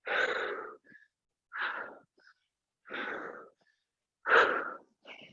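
A woman breathing out hard four times, about once every second and a half, in time with exercise reps: effortful exhales under exertion.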